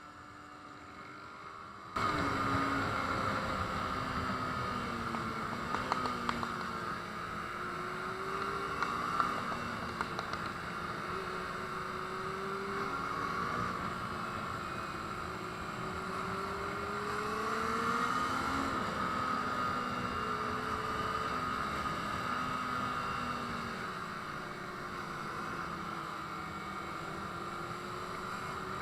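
Motorcycle engine running under way, its pitch rising and falling as the rider accelerates and eases off, over a steady rushing noise. It cuts in suddenly about two seconds in.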